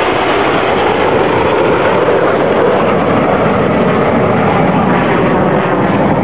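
Jet roar of the Red Arrows' BAE Hawk T1 jets flying by in formation: a loud, steady rushing noise.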